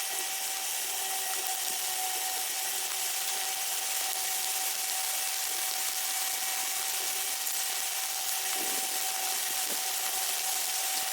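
Primer being sprayed onto a car door: a steady hiss, with a faint constant hum underneath.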